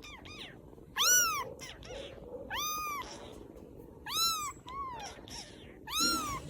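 Baby kittens mewing: about half a dozen high-pitched mews, each rising then falling in pitch, coming roughly a second apart.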